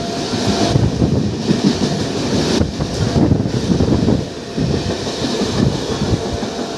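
Suburban electric local train running through at speed, its wheels clattering over the rail joints in a steady loud rumble.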